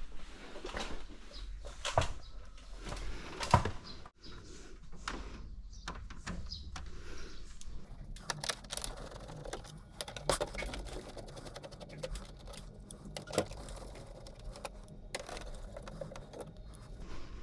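Irregular clicks and knocks of plastic and metal parts being handled and taken apart on an air conditioner, with a faint steady hum joining in from about six seconds in.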